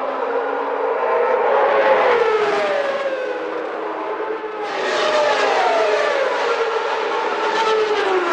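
Several 1991 Formula One cars' engines at high revs going past one after another, each engine's pitch falling as it passes. About halfway through the sound changes abruptly to a brighter pickup of more cars going by.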